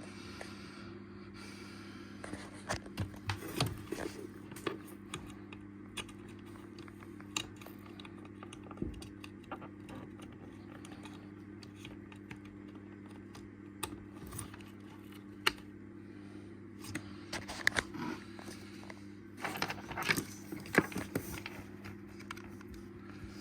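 Dishwasher parts and tools being handled during reassembly: scattered clicks, rattles and scrapes of plastic and metal, busiest a few seconds in and again near the end, over a steady low hum.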